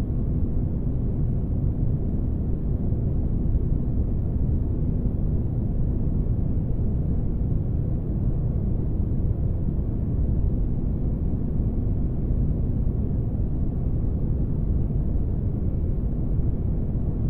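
Spaceship-interior ambience noise: a steady, deep rumbling drone with a faint constant hum on top, unchanging in level.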